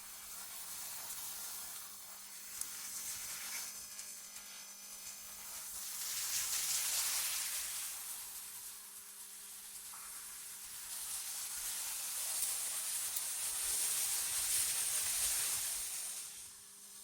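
AI-generated wind ambience: a hissing, airy rush that swells and fades in slow gusts, building about six seconds in and again from about twelve seconds before dying down near the end.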